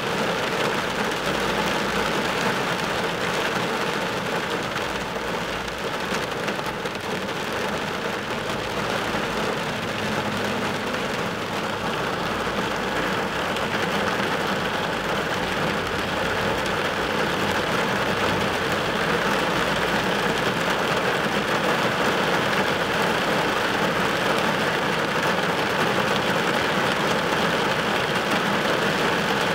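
Rain falling on a car's windshield and roof, a steady hiss heard from inside the car.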